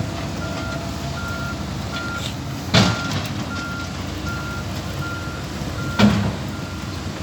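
Backhoe's engine running steadily while its reversing alarm beeps, one short high beep about every three-quarters of a second. Two loud knocks break in, one about three seconds in and one about six seconds in.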